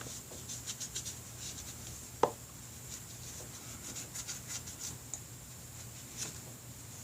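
Light scratchy rubbing and ticking of hand polishing on the metal cooling fins of a motorcycle engine, with one sharper knock about two seconds in.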